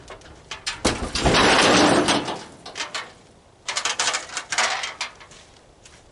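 Scrap metal being slid and dropped onto a loaded trailer: a long scrape about a second in, then a quick run of clanks and rattles, fading out near the end.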